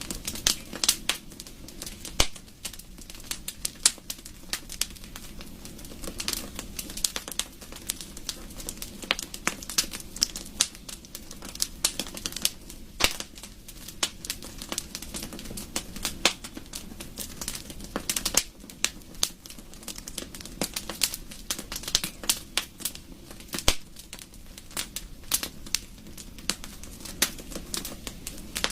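Wood fire crackling: irregular sharp pops and snaps, many a second and some louder, over a steady low rumble of the flames.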